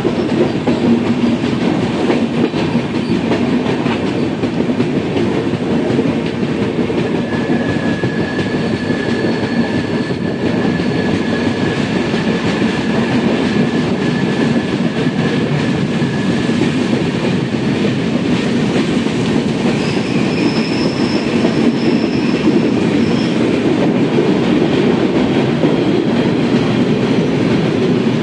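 Indian Railways express train running on the rails: a steady, loud rumble with wheel clatter. Faint high-pitched whines come and go about a quarter of the way in and again past two-thirds.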